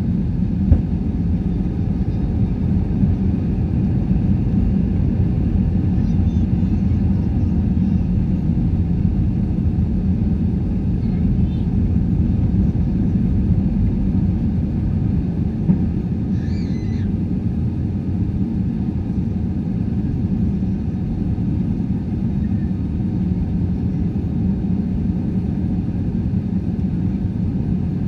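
Steady low rumble of an Airbus A320-214 airliner heard from inside the passenger cabin: the CFM56 engines and airflow running evenly, with no change in pitch.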